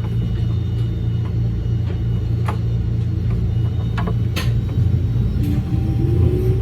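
Electric commuter train running just after departure, heard inside: a steady low rumble with a few sharp clicks, and a whine that starts rising in pitch near the end as the train picks up speed.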